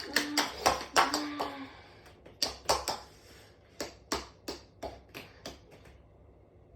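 A run of sharp clicks and knocks, tightly bunched at first and then falling into about three a second before stopping near the end, with two short steady tones in the first second and a half.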